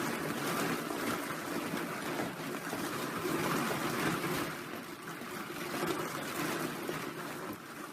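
Many small plastic eggs rattling and clattering together as ferrets burrow and churn through a tub full of them, a steady dense clatter of light clicks.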